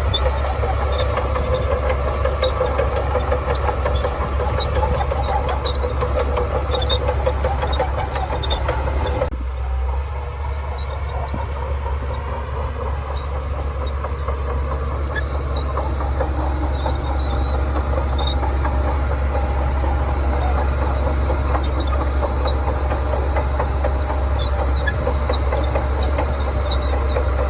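Shantui DH17C2 bulldozer's diesel engine running steadily under load, with a deep constant hum. About nine seconds in, the engine's higher note drops off suddenly, then slowly builds back up.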